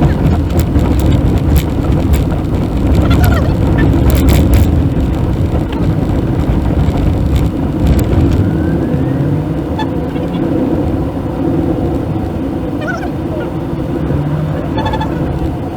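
Maruti Suzuki WagonR driving, heard from inside the cabin: a steady low rumble of engine and road noise with scattered clicks and a short higher tone near the end.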